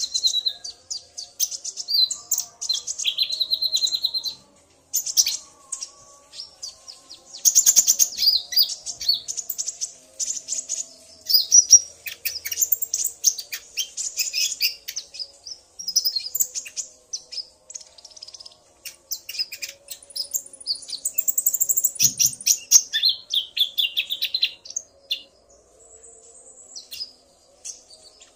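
Olive-backed sunbirds (konin) singing and calling back and forth: rapid high-pitched chirps and short buzzy trills in quick bursts with brief pauses, a male singing to a female's calls.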